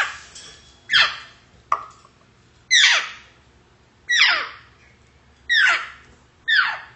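African grey parrot repeating a short call that slides steeply down in pitch, about seven times, roughly one a second.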